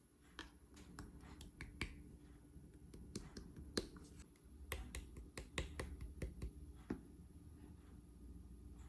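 Clear slime being pressed and poked by hand, giving a string of irregular sharp clicks and pops that stop about seven seconds in.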